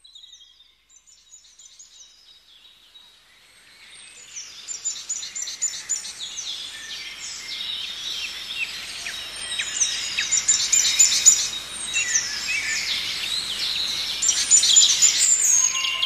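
Birdsong chorus: several birds chirping and giving quick trills over a soft outdoor hiss, fading in over the first few seconds.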